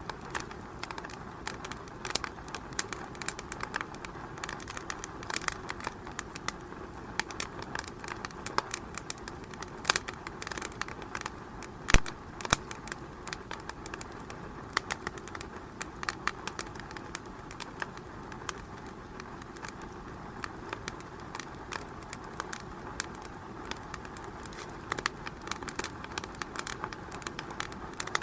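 Wood fire crackling in a fireplace: irregular snaps and pops over a steady hiss, with one loud pop about twelve seconds in.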